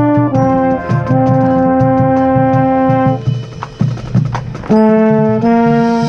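Marching band brass playing held chords that change every second or so, with a baritone horn playing close to the microphone. A thinner, percussive passage about halfway through gives way to loud full chords again.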